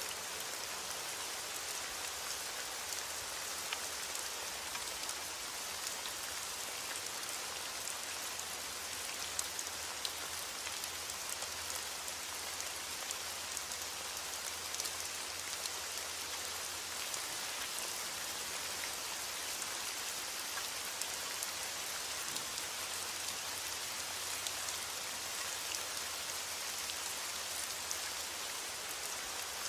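Heavy rain on a window, a steady hiss with scattered sharp drop ticks.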